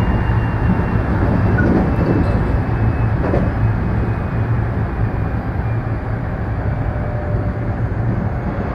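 Local commuter electric train's running noise from inside the cab: a steady low rumble of wheels on rail, getting slightly quieter toward the end as a faint steady whine comes in.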